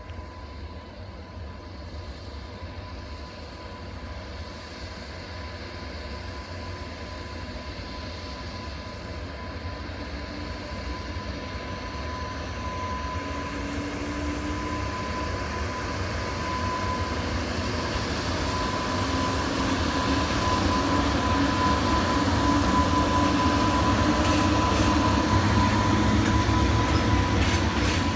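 Electric-hauled freight train approaching, growing steadily louder, a low rumble with a steady high tone over it; faint wheel clicks begin near the end.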